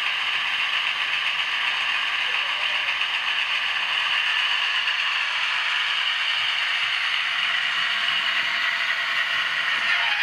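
Motor and gear drive of an ESU model V200 diesel locomotive whirring steadily while the model crawls at a very low speed step in a slow-running test.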